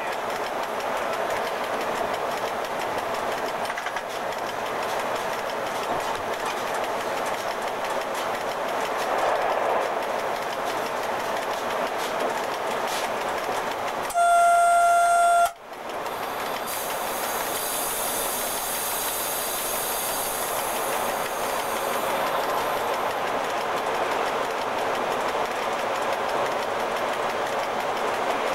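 Steady running noise of an FS E.656 electric locomotive heard from inside its cab, with one loud, steady horn blast lasting about a second and a half about halfway through.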